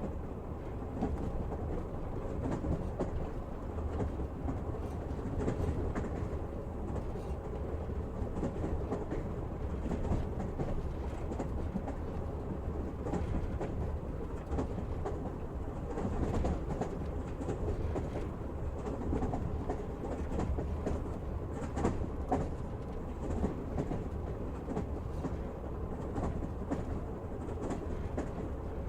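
Train wheels running on the rails: a steady rumble with scattered clicks from the wheels over the track.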